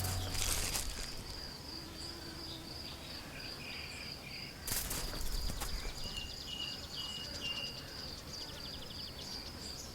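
Outdoor field ambience: a steady, high-pitched insect trill runs throughout, with a short series of high chirps about six to seven seconds in and a brief burst of noise near the middle.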